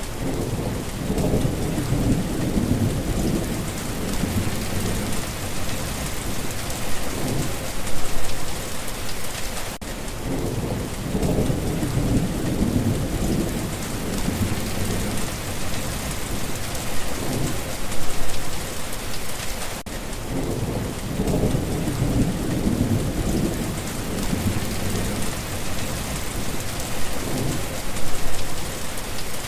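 Steady rain hissing, with low rolling thunder rumbling in swells. The same stretch of about ten seconds repeats, with a short dip in the sound each time it starts over.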